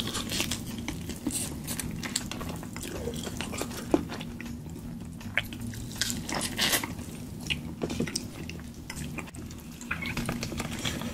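Close-miked wet chewing and lip-smacking of a person eating chicken in thick sauce, with irregular sticky clicks over a low steady hum.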